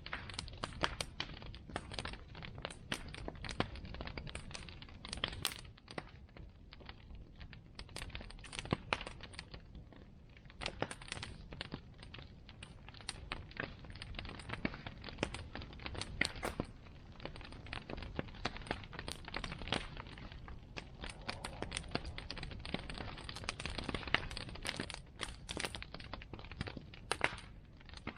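Bonfire burning, its wood crackling and popping in dense, irregular sharp snaps over a steady low rumble.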